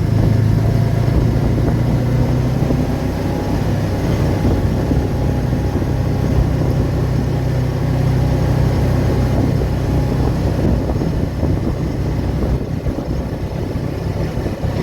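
Car driving at a steady pace: a low, even drone of engine and road noise.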